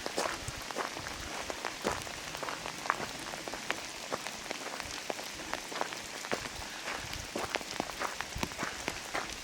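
Steady rain falling, with many irregular, louder drops ticking close by.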